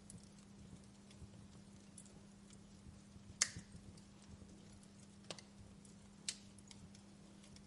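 Wood fire crackling in a fireplace: scattered small ticks with three sharper pops, the loudest about three and a half seconds in and two more near the end, over a faint steady low hum.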